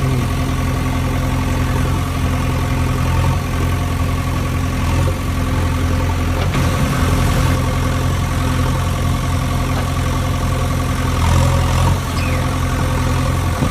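A heavy diesel engine running steadily at idle, its pitch holding constant.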